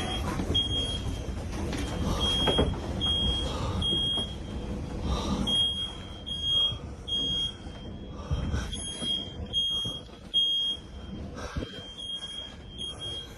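A smoke alarm beeping over and over, short high beeps about twice a second, over the low rumble of tornado wind that eases after about eight seconds.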